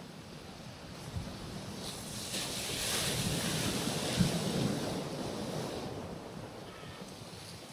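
A gentle ocean wave rolling onto a rocky shoreline: the surf swells to a wash about two seconds in, with a brief thump near the peak, then ebbs away, with some wind on the microphone.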